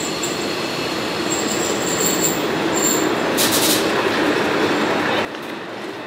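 A Yangon Circular Railway train pulling into a station platform: a loud, steady running noise of wheels on rail with thin high squeals of the wheels or brakes, and a brief hiss about three and a half seconds in. The noise drops off abruptly about five seconds in.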